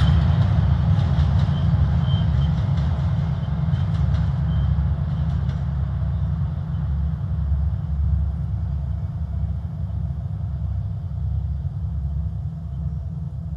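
Consist of Soviet TE10-series diesel locomotives (2TE10U and 3TE10UK) running on the rails: a deep, steady diesel drone with sharp wheel clicks over rail joints in the first several seconds, slowly fading as the locomotives move away.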